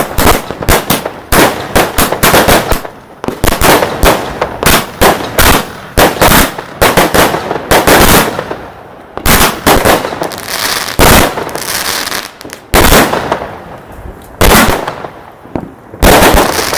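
Class 4 fireworks battery firing: rapid volleys of loud bangs for the first half. Then come single heavier bursts a second or two apart, some trailed by a crackling hiss.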